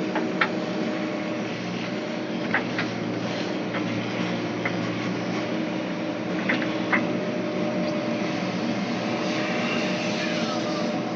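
Diesel engine of a backhoe loader running steadily, with a few short sharp knocks or clanks.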